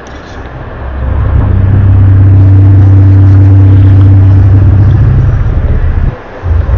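Loud, low, steady droning hum of the kind passed around as the 'strange sound' or 'earth groaning', its source unidentified. It swells up about a second in, holds at one pitch, drops out briefly near the end and then returns.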